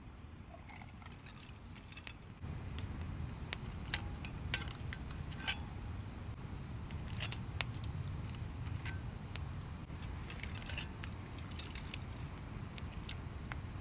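Scattered sharp clicks and light taps over a steady low rumble, which grows louder about two and a half seconds in.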